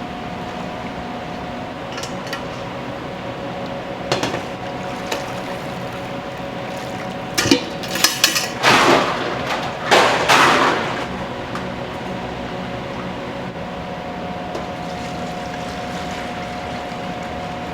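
Udon shop kitchen: a steady hum of kitchen equipment, with scattered knocks and a cluster of loud clattering of dishes and pots from about seven and a half to eleven seconds in.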